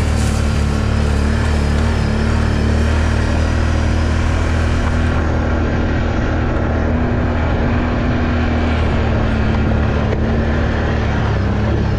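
ATV engine running at a steady speed while riding, a constant low drone.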